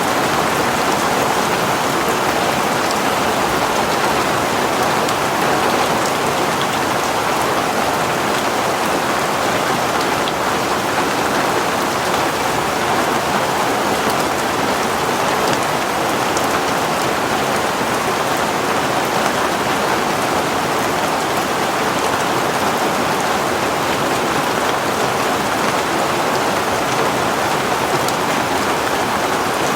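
Heavy rain falling steadily, an even unbroken hiss with scattered drop ticks.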